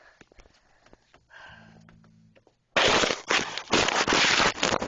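A few faint clicks, then from about three seconds in loud crackling and rubbing: handling noise as a phone is set down and propped up, something rubbing directly on its microphone.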